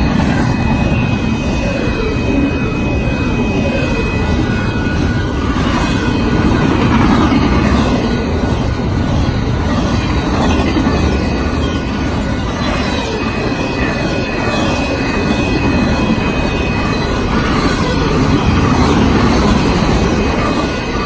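Double-stack and trailer flatcars of a Union Pacific intermodal freight train rolling past at close range: a steady, loud rumble and rattle of steel wheels on rail, with a thin high squeal from the wheels that comes and goes.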